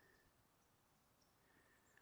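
Near silence, with only faint background hiss.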